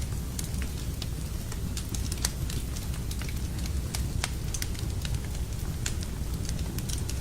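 Wood fire burning in a fireplace: a steady low rumble of flames with irregular crackles and pops, several a second.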